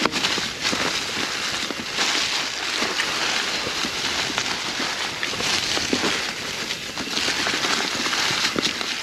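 Mountain bike tyres rolling fast over a narrow trail covered in dry fall leaves: a steady crunching rustle of leaves with many scattered clicks and knocks from rocks and the bike.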